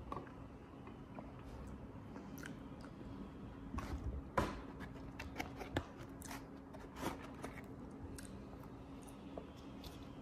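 A person eating fried food: soft chewing and mouth sounds with scattered small clicks, a sharper one about four seconds in, over a faint steady low hum.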